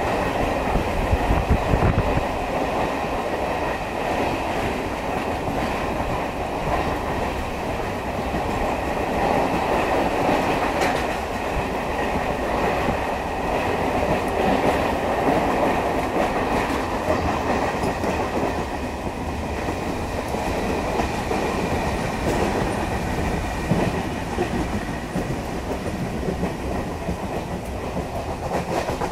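Running noise of a Mumbai suburban EMU local train heard from its open doorway at speed: a steady rush of wheel and rail noise with wheels clicking over rail joints, and a faint steady whine.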